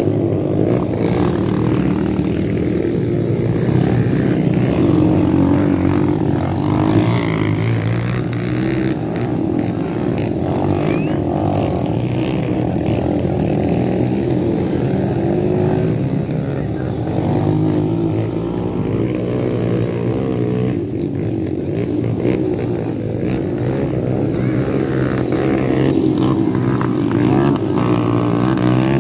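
Motocross dirt bike engine running steadily, with no sharp revs or stops.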